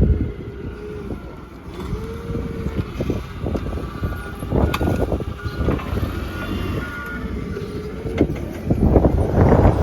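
Cargo van driving on the highway: steady engine and road rumble with a few knocks, getting louder near the end.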